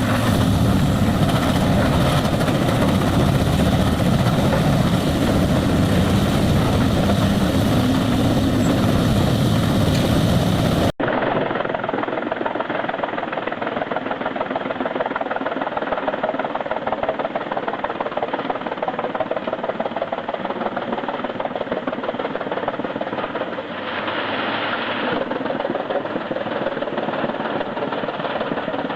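Heavy industrial wood grinder running loud and steady under load, its engine and grinding mixed into one dense mechanical din. About 11 seconds in the sound cuts abruptly to a different, thinner-sounding recording of heavy wood-chipping machinery running.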